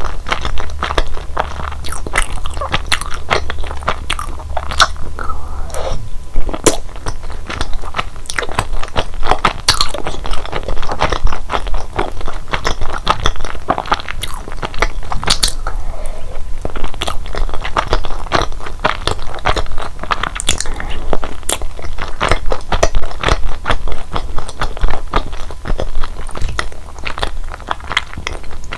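Chewing of mitarashi dango, chewy rice-flour dumplings coated in a sticky sweet soy glaze, with many small, wet mouth clicks throughout.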